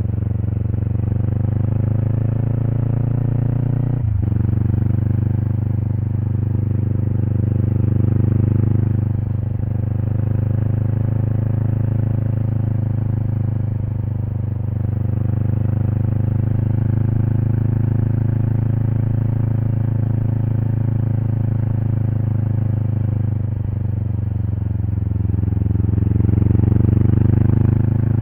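Exhaust of a 2024 Kawasaki Eliminator SE's parallel-twin engine, running through a BEAMS Power Header pipe and muffler, heard close up from the licence plate while riding at steady revs. The note drops sharply for a moment about four seconds in, and the revs rise near the end.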